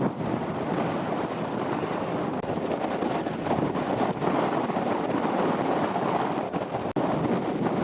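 Strong wind buffeting the microphone: a steady rush, with a brief sharp dip about seven seconds in.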